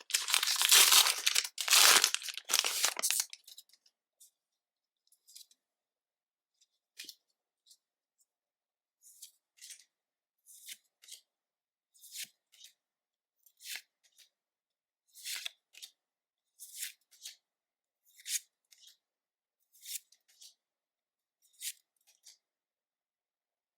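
A Pokémon booster pack's foil wrapper is torn open with loud tearing and crinkling for the first few seconds. It is followed by faint, short card flicks, about one every second and a half, as the cards are turned over one by one.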